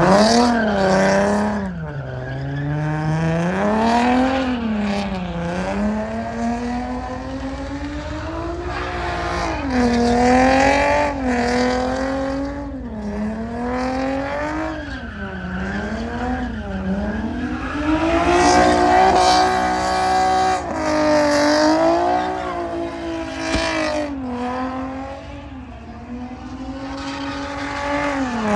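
A truck's engine revving again and again, its pitch climbing and dropping about every second or two, with a higher hiss of tyre or exhaust noise over it.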